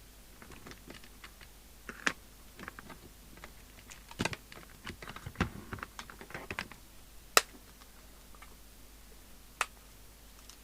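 Irregular small clicks and taps of hands working at an electronics bench, handling the radio, its controls and test leads, with one sharp click about two thirds of the way in and another near the end.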